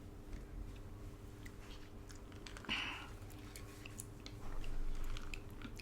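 Close-up eating sounds: chewing with scattered small clicks, a brief louder rustle about three seconds in, over a faint steady hum.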